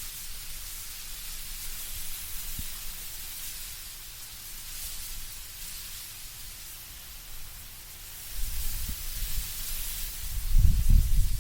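Wind blowing through autumn trees, leaves rustling in a steady hiss that swells and eases. A low rumble comes in about eight seconds in and grows strongest near the end.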